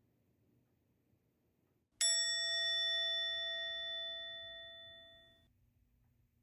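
A single bell-like chime struck once about two seconds in, ringing clearly and fading away over about three seconds.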